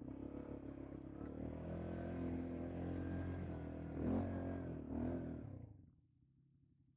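ATV engine throttled up suddenly from idle and run hard for several seconds, with two sharper revs about four and five seconds in, then dropping back to a low idle near the end.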